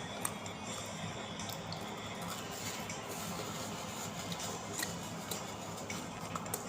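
Close-up eating sounds of a person chewing pizza: soft wet mouth sounds with small irregular clicks and smacks.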